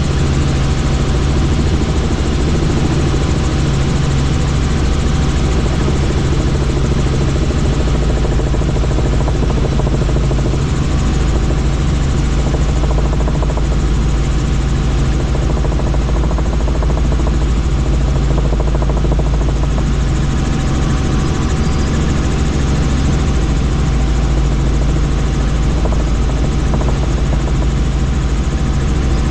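Helicopter in flight: steady, loud engine and rotor noise with a strong low drone, unchanging throughout.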